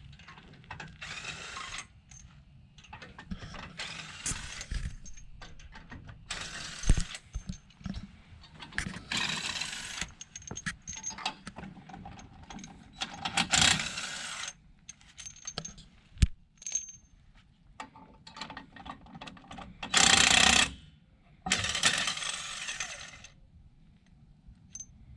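Hand tools working on a truck: repeated short bursts of ratcheting and clicking metal, about seven in all, with the loudest near the end.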